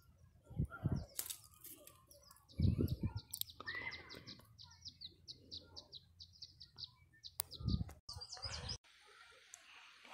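A small bird chirping in a fast run of short high notes, about five a second, for several seconds. Loud knocks and rustles come from the shrub's branches being handled, the loudest a few times in the first three seconds and again near the end.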